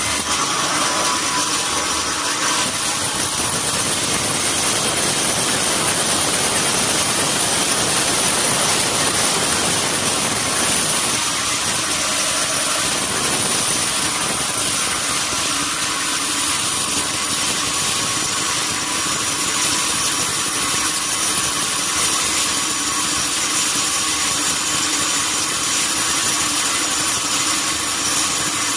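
Sawmill saw running steadily, with a constant high whine over the machine noise.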